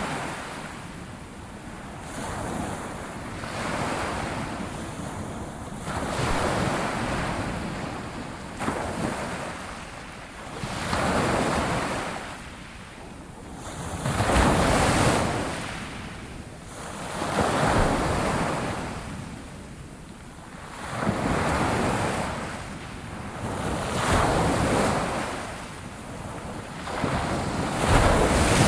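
Sea waves breaking and washing ashore in repeated surges, roughly one every three seconds, each swelling and then draining away.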